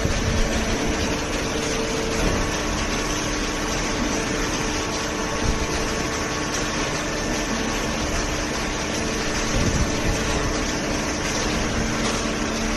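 Automatic horizontal hydraulic baler running: a steady machine noise from its hydraulic pump unit, with a few held hum tones that shift a little about two seconds in.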